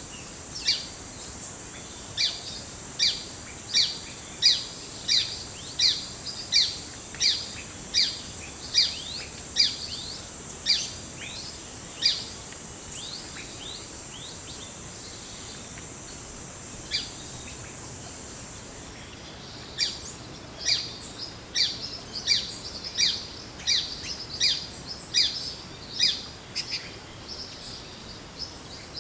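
A forest bird repeating short, downward-sweeping call notes about one and a half a second, breaking off for several seconds midway and then starting a second run. A steady high-pitched insect drone sounds underneath and stops about two-thirds of the way through.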